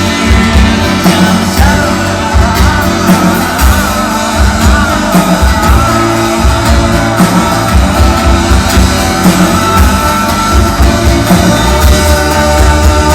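Rock band playing live: drum kit, bass and electric guitar, with a lead line wavering in pitch over a steady beat.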